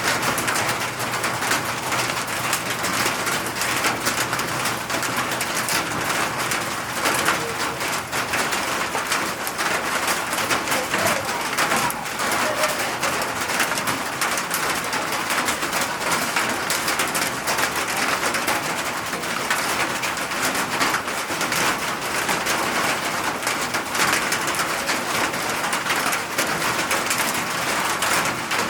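Steady rain falling, a dense even patter of drops. A dove coos faintly in the background a few times in the first half.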